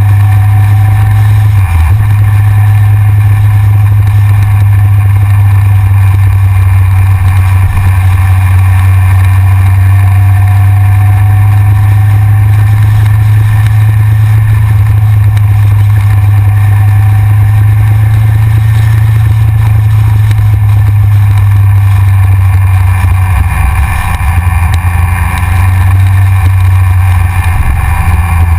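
Yamaha XJR motorcycle's inline-four engine running at a steady cruise, a loud continuous low drone, heard from a GoPro on the front of the bike with wind noise on the microphone. The drone dips and wavers briefly near the end as the throttle eases.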